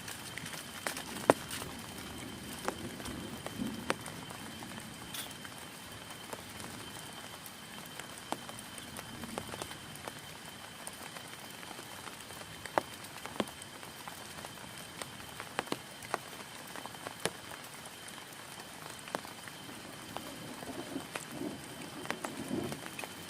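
Heavy rain falling on a tent: a steady hiss of rain with scattered sharp individual drops striking the fabric.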